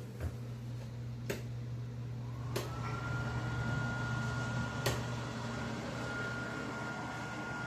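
Steady low electrical hum of an appliance in a small room, with a few light clicks and a faint thin whine that comes in about two seconds in and holds steady.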